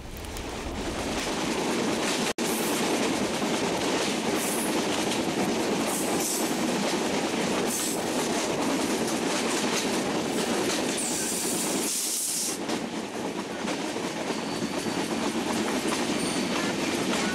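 Steady rumble and track noise of a passenger train's LHB coaches running on broad-gauge track, heard from the side of the moving coach. The sound drops out for an instant about two seconds in.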